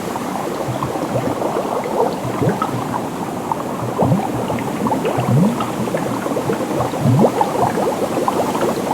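Seawater bubbling and sloshing close to the microphone: a dense, steady churn of small bubbles and gurgles.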